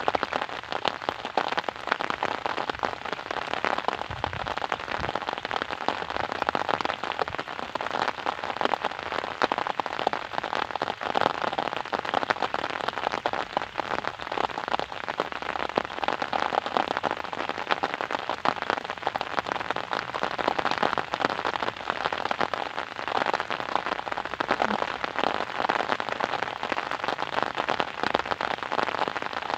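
Steady rain falling and pattering on surfaces, a dense spatter of drops throughout.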